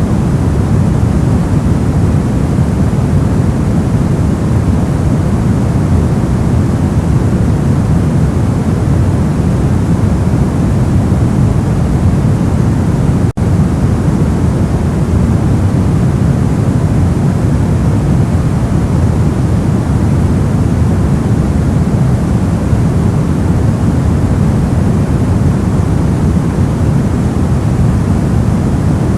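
Steady, even hiss from a generated white noise track, weighted toward the low end so it sounds deep and rumbly. It drops out for a split second about halfway through.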